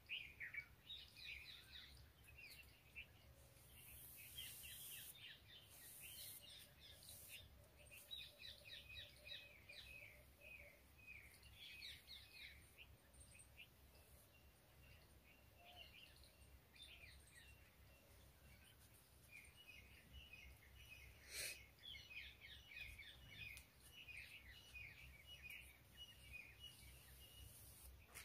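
Faint birdsong: small birds chirping in quick repeated series over a low steady rumble, with one sharp click about three quarters of the way through.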